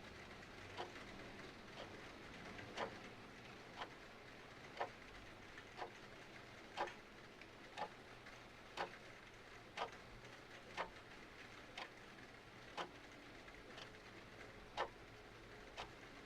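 Mechanical clock ticking steadily, about one tick a second, over a faint steady hiss of rain.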